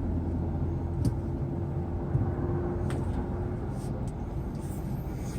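Kia Morning's small three-cylinder engine and drivetrain heard from inside the cabin while moving slowly, a steady low hum. A thin steady whine fades out a little past halfway, and there are a few faint clicks.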